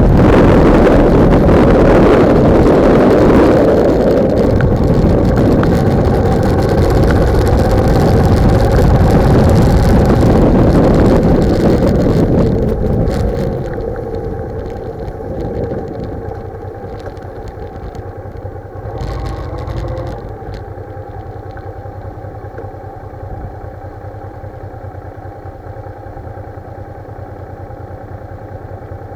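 Wind buffeting a bike-mounted microphone over a motorcycle engine at speed; about 13 seconds in the wind noise falls away as the bike slows, leaving the engine running steadily at low revs, with a brief louder swell near 19 seconds.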